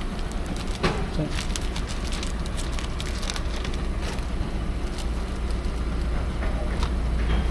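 Low steady rumble of a stopped car with its engine idling, with a run of small crackles and clicks over the first few seconds.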